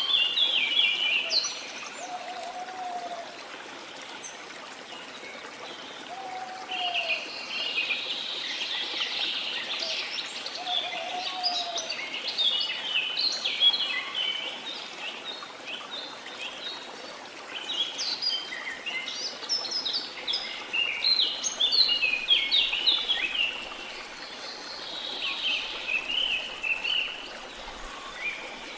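Rainforest ambience: many birds chirping and twittering in bunches over a steady rush of waterfall water, with a lower arched whistle heard three times in the first twelve seconds.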